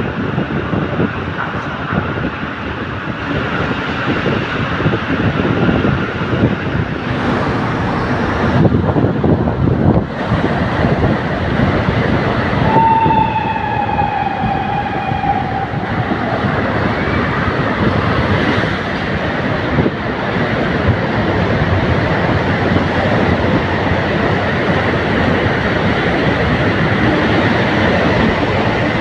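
Steady rumbling travel noise of a moving vehicle. About halfway through, a horn sounds for about three seconds, its pitch sagging slightly.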